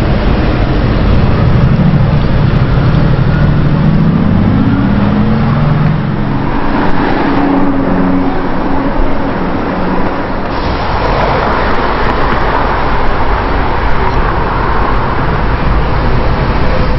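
Car engine revving, its pitch climbing over the first few seconds, then giving way to a dense wash of traffic noise from cars on the move.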